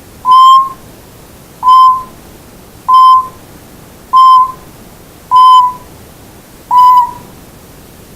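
Timneh grey parrot whistling six short, identical beep-like notes, each with a quick upward slide into a steady pitch, about one every 1.2 seconds, loud and close: mimicry of an electronic beep.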